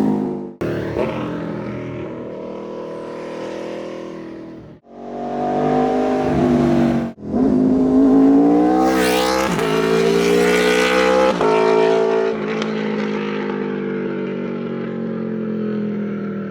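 Aprilia RSV4's V4 engine through an SC Project aftermarket exhaust, revving and accelerating, its pitch climbing and falling. The sound cuts out sharply three times for a moment, near the start, about five seconds in and about seven seconds in.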